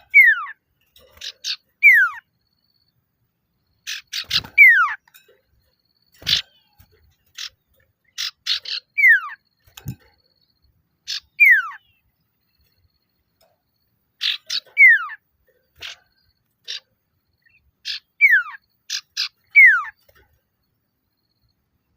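Male common iora (Aegithina tiphia) calling. Each phrase is a quick run of short chattering notes followed by a loud whistle that slides down in pitch, repeated every few seconds and stopping near the end. It is a male's call to challenge a rival, used as a lure, with a few sharp clicks between phrases.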